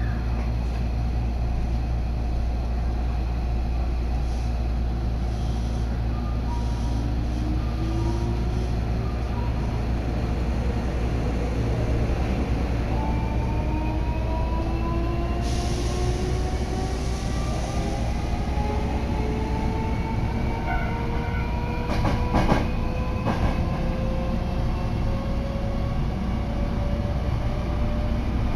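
Inside a Hankyu Takarazuka Line commuter train pulling away: a steady low rumble, with the electric traction motors' whine rising slowly in pitch from several seconds in as the train gathers speed. A few sharp clacks come about three-quarters of the way through.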